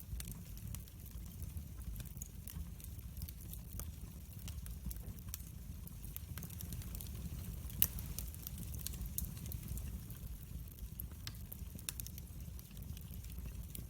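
Wood fire crackling in a fireplace: a steady low rumble with frequent small pops and snaps, and one louder pop about eight seconds in.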